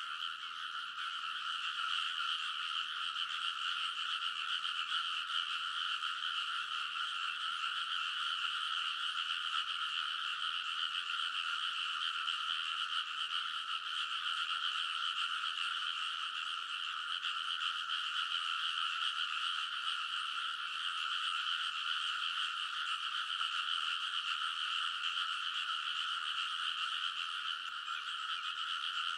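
A large chorus of rice-paddy frogs calling together: a dense, unbroken mass of overlapping croaks, steady in level throughout.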